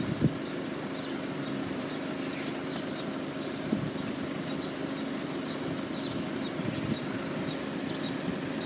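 Steady low engine hum holding one pitch, like a vehicle idling, with faint short high chirps repeating over it.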